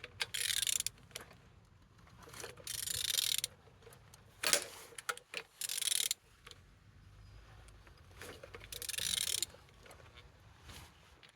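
Used DV6DTED 1.6 diesel engine being turned over by hand: four short hissing, scraping bursts a couple of seconds apart, with one sharp knock about four and a half seconds in. The engine turns freely.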